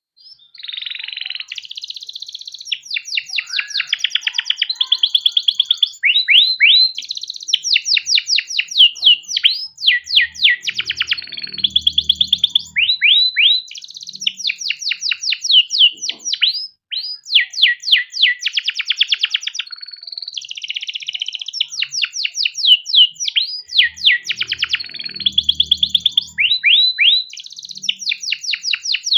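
Domestic canary singing a long, unbroken song of rolling trills and rapid sweeping notes, with the rhythm of the trills changing every second or two.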